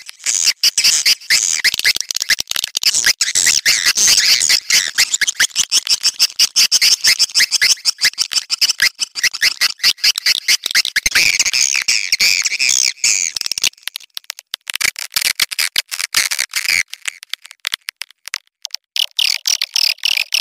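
Swiftlets twittering in a dense, rapid chatter of chirps and clicks: a recorded swiftlet mating call of the kind played as a lure to draw swiftlets. The chatter thins after about two-thirds of the way through, breaks off briefly, then starts again near the end.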